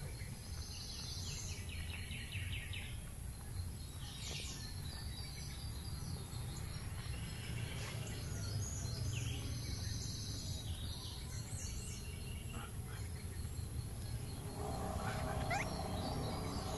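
Outdoor rural ambience: birds chirping on and off over a low, steady rumble.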